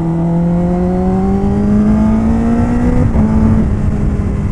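Kawasaki Ninja ZX-10R inline-four engine accelerating under the rider, its note climbing steadily for about three seconds, then shifting up a gear and holding steady.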